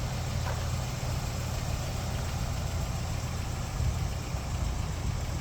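A 1987 Toyota pickup's engine idling steadily.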